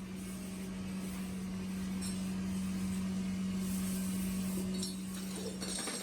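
Workshop machine running with a steady low hum, with a few light metallic clinks over it.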